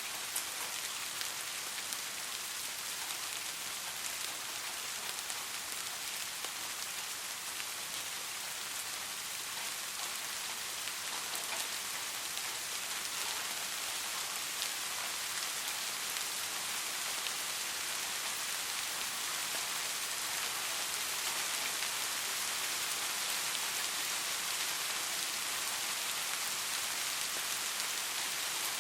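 Steady soft rain falling, an even hiss with scattered individual drops.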